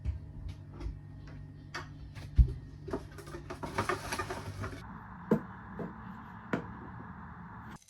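Kitchen handling sounds: scattered light clicks and knocks, one sharp thump about two and a half seconds in, and about a second of hiss a little before the middle, over a steady low hum.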